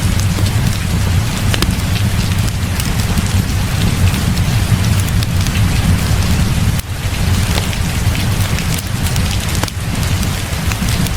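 Heavy rain falling steadily over a constant low rumble, with scattered sharp clicks throughout.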